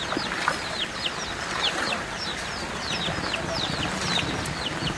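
Birds chirping: a rapid run of short, high, falling chirps, several a second, over steady background noise.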